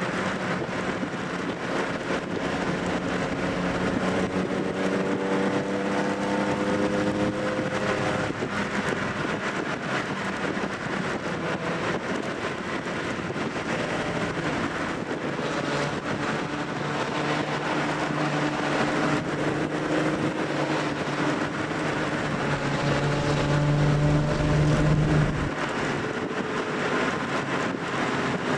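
Classic Nissan Skyline 'Ken-Meri' on Solex carburettors, with headers and dual exhaust, driving on the open road. The engine's pitch climbs for the first several seconds, then drops about eight seconds in. It climbs again and is loudest just before it drops back near the end. Road and wind noise run underneath.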